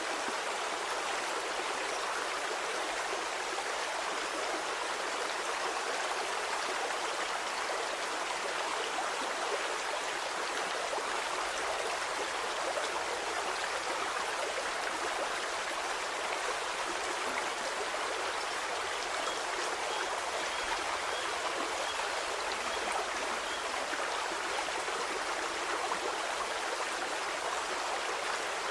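Stream water flowing steadily, a continuous rushing and babbling with no pauses or changes.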